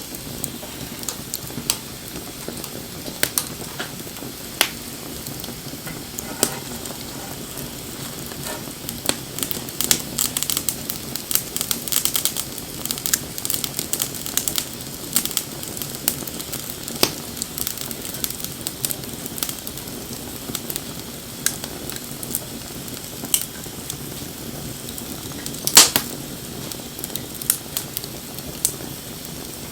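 Wood bonfire burning with a steady low hiss and frequent sharp crackles and pops; the pops come in a quick flurry about a third of the way in, and one loud snap comes near the end.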